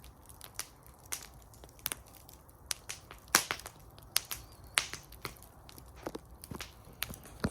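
Wood fire in a fire bowl crackling, with sharp irregular pops and snaps, about two a second, over a faint low hiss; the loudest pop comes a little under halfway through.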